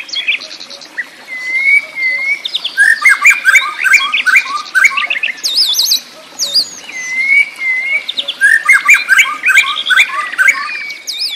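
Songbirds singing: quick chirps and looping whistled notes, with one dense run of rapid chirping that comes twice, about three seconds in and again near the end.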